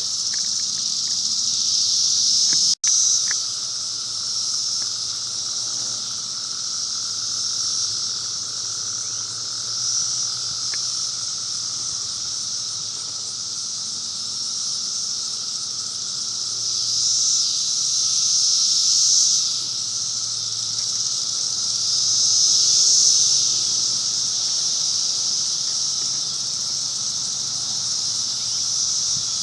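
Chorus of insects buzzing steadily at a high pitch, swelling louder and fading back a few times, over a fainter lower steady hum. The sound cuts out for an instant about three seconds in.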